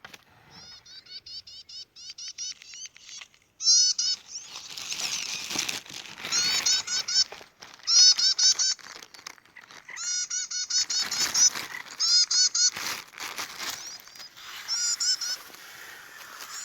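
A bird calling: bursts of quick, short, harsh repeated notes, about eight a second, with a new burst every second or two.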